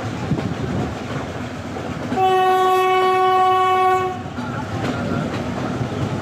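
Sri Lankan diesel train running with a steady rail clatter. About two seconds in, the train's horn sounds one steady note for about two seconds, the loudest sound here.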